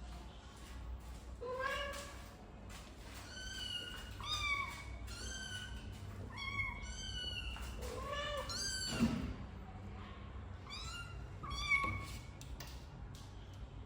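Young kittens mewing: a string of short, high-pitched mews, about one a second, some overlapping.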